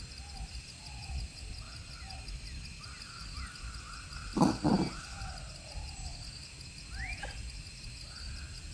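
Night chorus of insects trilling steadily and frogs calling, with two short loud calls in quick succession about halfway through.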